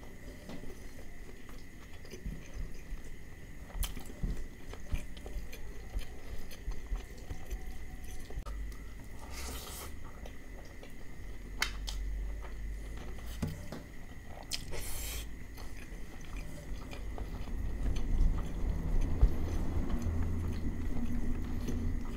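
Close-miked chewing of mouthfuls of mutton liver curry and rice eaten by hand, with a few sharp clicks; it gets louder for the last few seconds.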